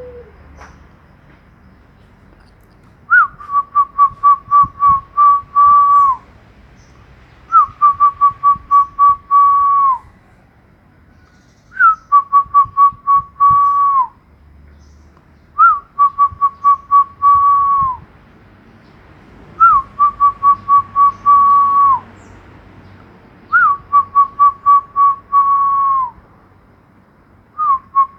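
A loud whistled phrase, repeated seven times about every four seconds. Each phrase is a quick upward note, a run of short pips, then a long held note that drops away at the end.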